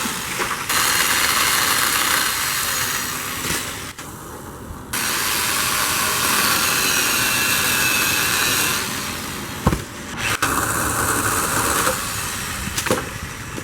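Ryobi 6-amp electric pole chainsaw running at full speed, its motor and chain whining loudly as it cuts branches. It eases off about four seconds in, comes straight back, and there is a sharp knock near ten seconds in.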